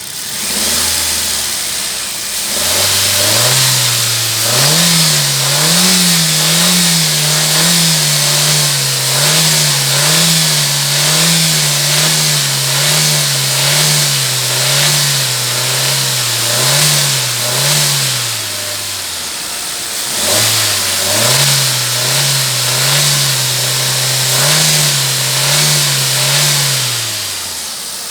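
Hyundai i20 car engine revved and held at raised speed for about fifteen seconds, its pitch wavering a little. It then drops back to idle and is revved again for about six seconds before settling.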